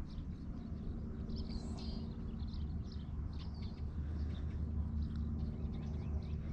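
Small birds chirping faintly now and then, short high calls scattered through, over a steady low rumble.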